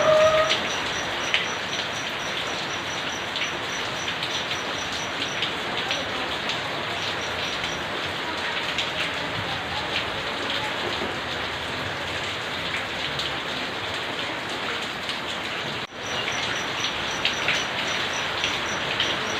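Steady rain falling and splashing on surfaces, with frequent separate drips. A faint high ticking pulses about three times a second through much of it, and a brief pitched tone sounds right at the start.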